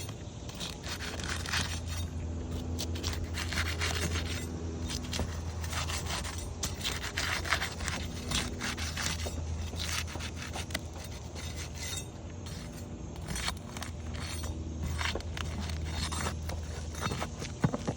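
Irregular scraping and prying strokes as the sealant strip of a 3-tab asphalt roof shingle is broken to free the shingle for removal.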